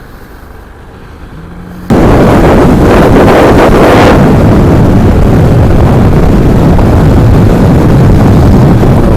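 KTM 690 Duke's single-cylinder engine ticking over quietly, then about two seconds in a sudden loud rush of engine noise and wind buffeting on the helmet microphone as the motorcycle pulls away and rides on.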